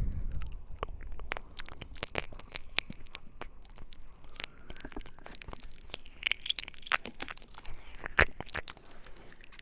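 Close-miked ASMR mouth sounds: rapid, irregular wet clicks and smacks of the tongue and lips, with a few louder pops about eight seconds in.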